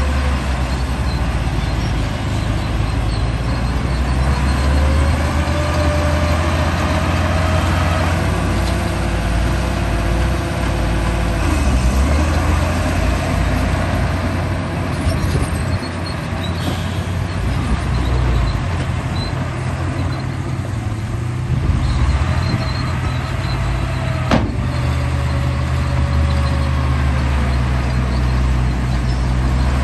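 Radio-controlled bulldozer running: a steady low drone under small motor whines that slowly rise and fall as it moves, with one sharp click about 24 seconds in.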